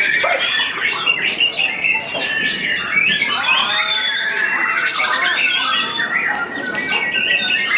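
White-rumped shama song: a dense, unbroken stream of fast varied whistles, chirps, rattles and rising and falling glides, with several notes overlapping at once.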